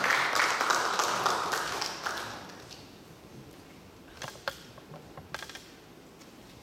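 Audience applauding, dying away over about three seconds, followed by a few sharp taps.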